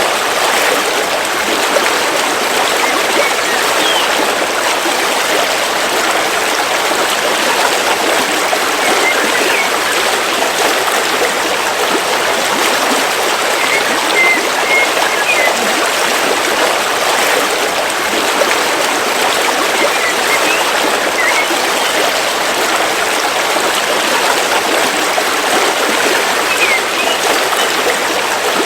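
River water flowing steadily through a forest, an even rushing, with a few faint short bird chirps now and then.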